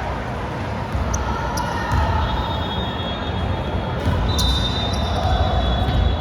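Sounds of a basketball game in a gym: the ball bouncing on the court and sneakers squeaking in short high-pitched squeals, over a steady hum of voices in a large echoing hall.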